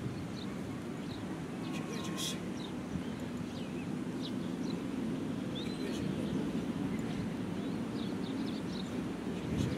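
Outdoor background: a steady low rumble, with small birds chirping briefly now and then.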